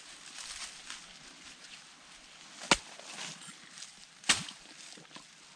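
Two sharp chops, about a second and a half apart: a blade striking a coconut to cut it open.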